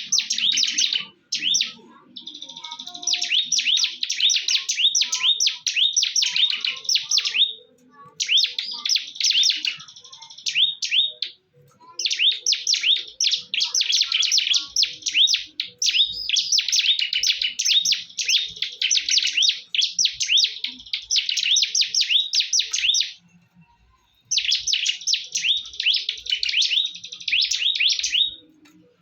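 Ciblek (bar-winged prinia) singing in fast, high chirping phrases several seconds long, broken by short pauses.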